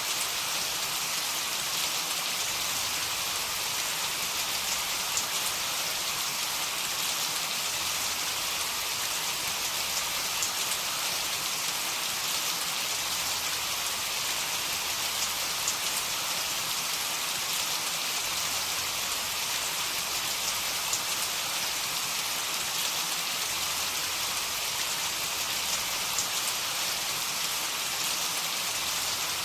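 Heavy rain falling steadily: an even, hissing wash with scattered drop ticks, no thunder.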